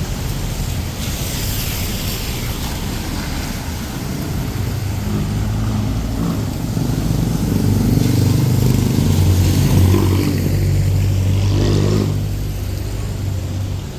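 Motor vehicle engine running close by in traffic, growing louder through the middle and fading about twelve seconds in, over a steady hiss.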